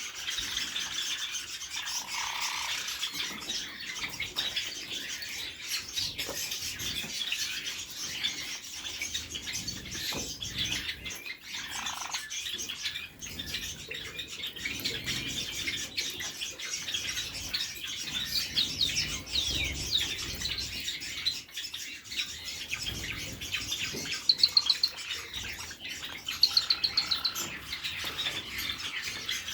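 A group of small cage birds chirping continuously, many calls overlapping. Near the end come two short runs of loud, rapid chirps a couple of seconds apart.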